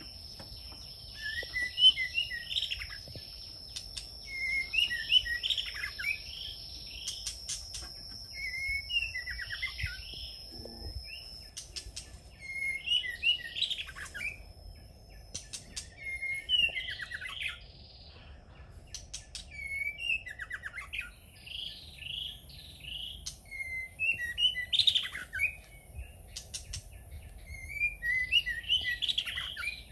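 A songbird singing the same short warbling phrase over and over, about every three to four seconds. A thin steady high tone runs under the first third.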